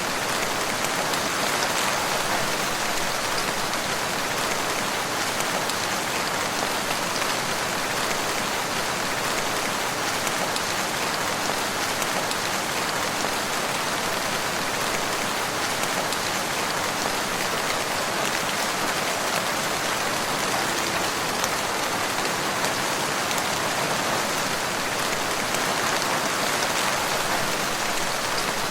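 Steady rain falling, a dense even hiss of many drops pattering on surfaces.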